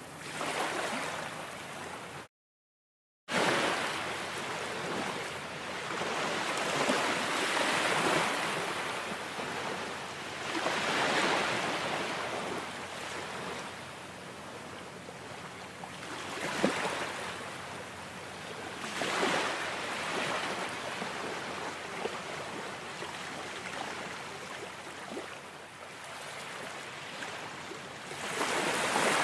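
Ocean waves breaking and washing up on a shore, rising and falling in a slow swell every few seconds. About two seconds in, the sound cuts out to silence for about a second.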